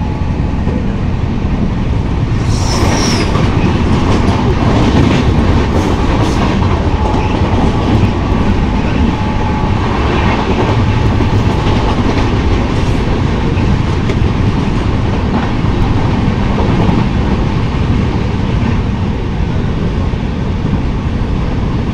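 Passenger train running at speed: the steady rumble and clatter of the coaches' wheels on the track, with a brief high-pitched squeal about three seconds in.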